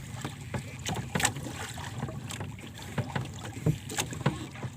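Water slapping and knocking against the hull of a small boat, in irregular sharp knocks and splashes, with wind on the microphone.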